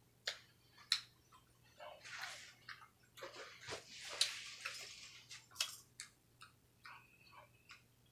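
Faint eating sounds: scattered mouth clicks and smacks from chewing, with a paper napkin rustling as it is wiped across the mouth.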